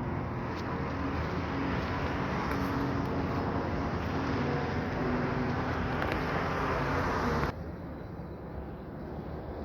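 Steady car and traffic noise with a low engine hum. It drops suddenly in level about seven and a half seconds in.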